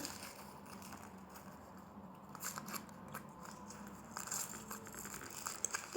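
Faint scattered clicks and rustles of small objects and packaging being handled, over a faint steady low hum.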